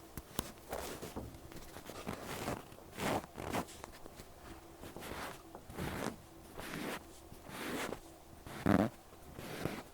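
Cotton pad wiping over an ASMR microphone's ear: a series of soft rubbing, scratchy strokes, about one a second, with a louder one near the end.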